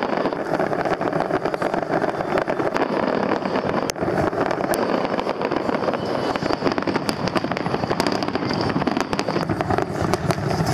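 Fireworks going off in quick succession: dense crackling and popping over a continuous rumble of bursting shells, with one sharper bang about four seconds in.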